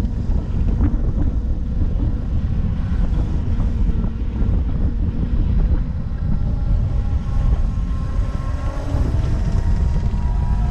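Wind buffeting the camera microphone while riding an electric motorbike, a steady low rumble with the ride's road noise under it. A faint rising whine comes in near the end.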